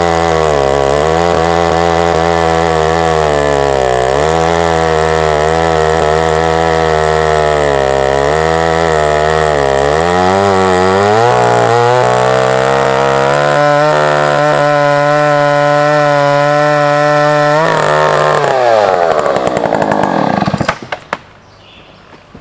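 Husqvarna 2100CD 100cc two-stroke chainsaw running hard with a wavering pitch, as under load in a chainsaw-mill cut. About eleven seconds in it settles to a steady higher speed. Near the end its pitch falls and the engine winds down and goes quiet.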